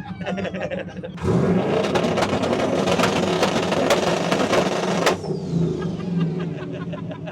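Twin-turbo LS V8 swapped into a Lincoln Continental held on a two-step launch limiter: the revs climb suddenly and hold for about four seconds with rapid crackling pops, then cut off sharply back to idle while a high turbo whistle falls away.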